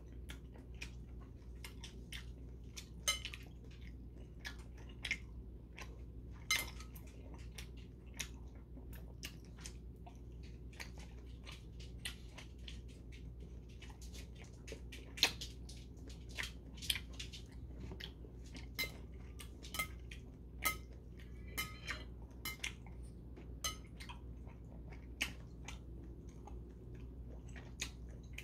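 Close-up chewing of spicy mixed noodles with whelk and shiitake mushroom, broken by irregular sharp clicks of metal chopsticks against the porcelain bowl.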